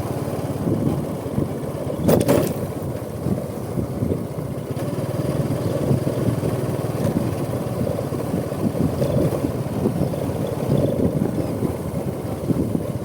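Honda Supra X 125 motorcycle riding along, its small single-cylinder four-stroke engine running under a steady rumble of wind and road noise. A short sharp clatter sounds about two seconds in.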